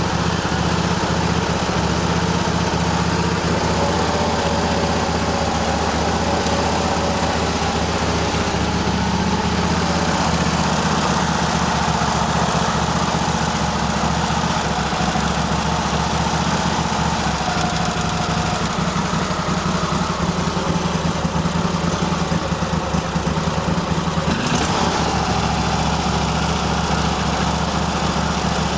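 Cub Cadet LT1050's 23-horsepower Kohler V-twin engine idling roughly and skipping, missing on the right cylinder. The owner suspects dirt in the carburetor, a bad spark plug or arcing plug wires.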